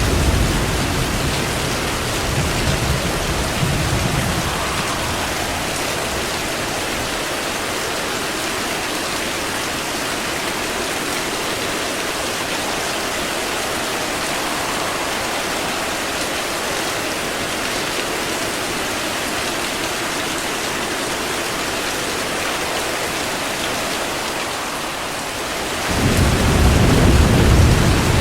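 Steady heavy rain with a low roll of thunder that fades out over the first few seconds; near the end another rumble of thunder sets in suddenly and grows louder.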